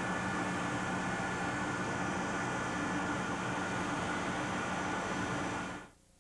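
Large high-wind test machine running steadily: a constant rush of blown air over an even mechanical hum, fading out near the end.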